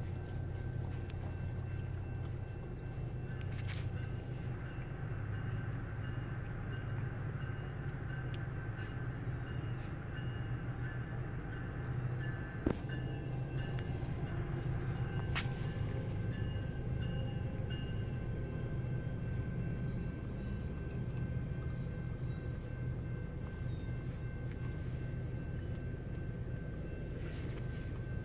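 Exo commuter train passing a level crossing: a steady locomotive and rail rumble, with the crossing's warning bell ringing steadily over it. A single sharp click is heard about halfway through.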